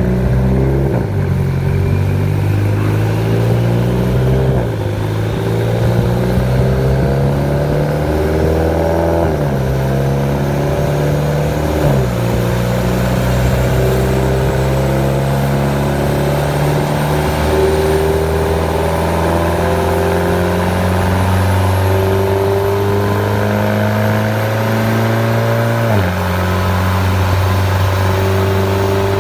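Mitsubishi Lancer Evolution X's turbocharged four-cylinder, fitted with a BorgWarner EFR7163 turbo, running on a chassis dyno and accelerating up through the gears of its SST twin-clutch gearbox. The engine note climbs steadily and drops abruptly at each upshift, about five times, with a long slow climb in the last gear.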